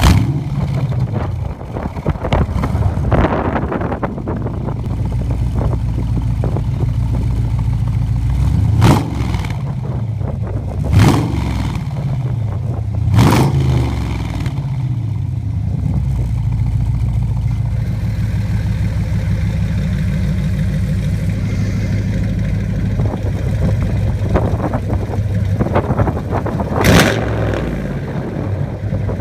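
Dodge Challenger SRT8's HEMI V8 idling through a valved exhaust, with four short, sharp throttle blips.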